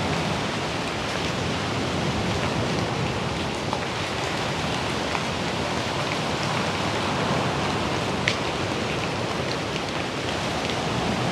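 Steady heavy rain falling, with scattered drops ticking close by and one sharper tick about eight seconds in.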